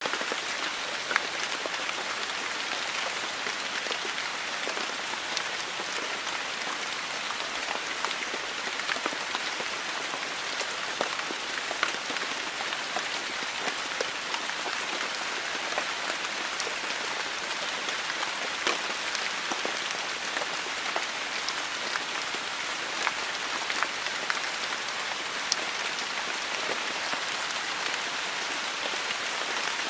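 Steady rain falling, with a constant hiss and many scattered sharper drop hits on a surface.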